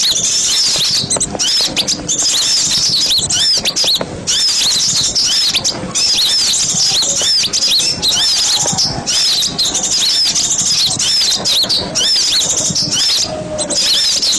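Many small birds chattering together in a dense, continuous flock chorus of rapid, overlapping high chirps, as used in a lure recording for drawing in forest birds.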